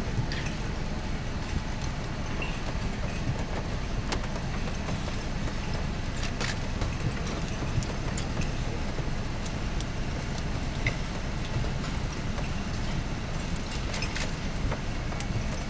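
Steady low rumble of wind and a car's running engine, with scattered sharp clicks and taps; the strongest clicks come about six and a half seconds in and near the end.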